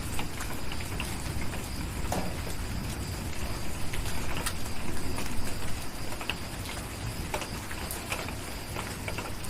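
Steady rain, with irregular sharp crackles and pops from a wood fire scattered over it and a low rumble underneath.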